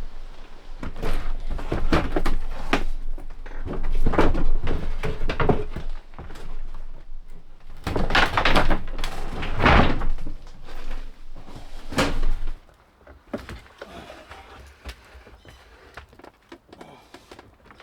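Wooden floorboards being lifted and set down: a run of irregular knocks, thunks and clatter that dies away about twelve seconds in, leaving only faint scattered taps.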